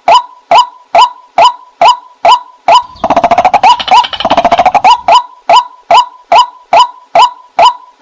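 White-breasted waterhen calls, a sharp 'kwak' note repeated about twice a second. About three seconds in they break into a fast rattling chatter lasting about two seconds, then the steady calls resume. It is a loud recording of the call, used as a lure to draw waterhens in.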